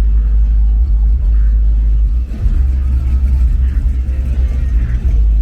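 A car engine rumbling low and steady.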